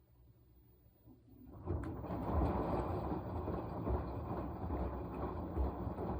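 Washing machine drum starting to turn again after a quiet pause, about a second and a half in: a steady noise of the laundry churning in the tub, with low thuds.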